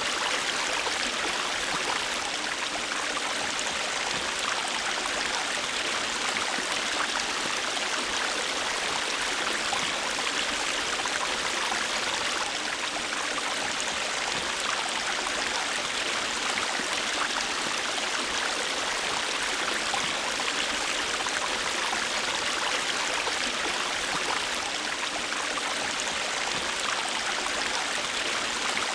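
River water flowing over stones, a steady even rush and babble with no change.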